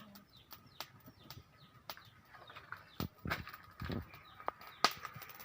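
Birds calling with short repeated chirps, over a faint steady tone. Around the middle and near the end come a few sharp knocks and handling clatter, the loudest about five seconds in.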